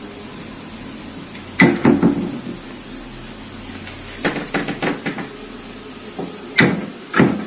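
The left door of a wardrobe knocking against its frame as it rattles slightly open and shut, in irregular clusters: two or three knocks about a second and a half in, a quick run of knocks around four to five seconds in, and two more near the end.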